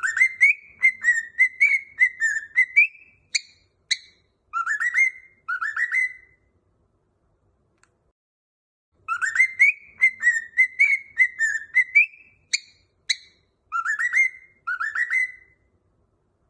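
Cockatiel whistling a short tune of quick rising notes. The same phrase comes twice, with a pause of about three seconds between.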